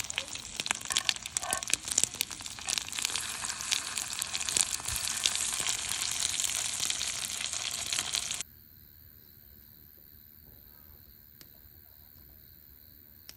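Food sizzling and crackling in a hot pan, cutting off abruptly about eight seconds in; after that, faint steady insect trilling, like crickets.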